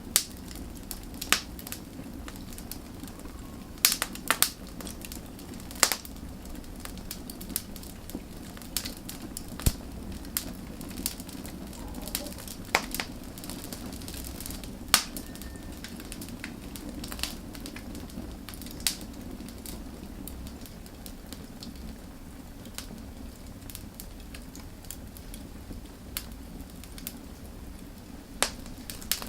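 Wood fire burning with a steady low rumble, and sharp crackles and pops at irregular intervals.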